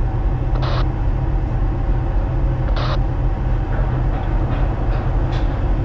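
Steady low hum of a ship's machinery, heard on the bridge of a tanker. Two short hisses come about two seconds apart, about a second in and about three seconds in.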